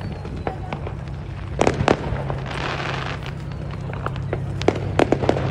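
Fireworks going off: scattered sharp bangs and pops, with a cluster of bangs about one and a half seconds in, a crackling hiss around three seconds, and a quick run of bangs near the end, over a steady low hum.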